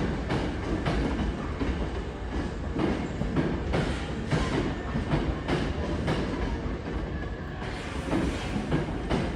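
Hankyu train passing over a level crossing, its wheels clacking over the rail joints about twice a second over a steady rumble.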